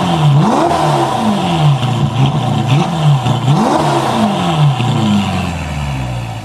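Ferrari California T twin-turbo V8 with a Capristo valved exhaust, revved repeatedly: each rev rises quickly in pitch and falls back more slowly. The sound fades away near the end.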